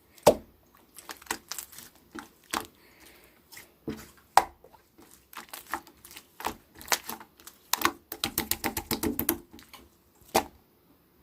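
Slime being squeezed and poked by hand, giving irregular sticky pops and clicks, with a quick run of about a dozen pops near the end.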